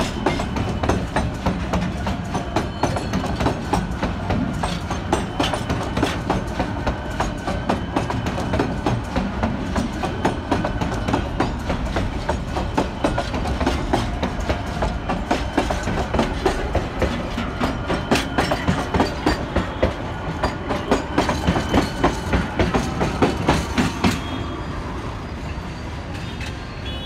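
Container freight train rolling past close by, its wagon wheels clacking over the rail joints in a fast, uneven rattle over a steady low rumble. The clatter cuts off suddenly about 24 seconds in, leaving a quieter steady background noise.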